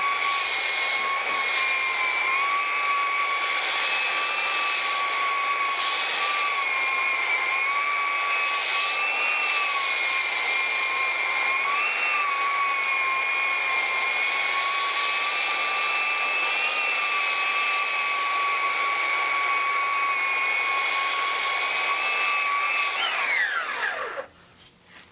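Corded variable-speed electric power tool running at its top speed as it works across the top of a wooden stump, its high motor whine dipping slightly in pitch now and then under load. About 23 seconds in it is switched off and winds down with a falling whine.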